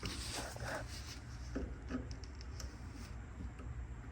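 Light rubbing and a few small clicks of hands handling parts on an air-conditioner unit, over a steady low hum.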